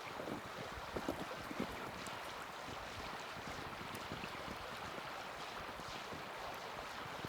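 Small campfire burning with a steady hiss and scattered crackles and pops from the wood, a few sharper pops about a second in.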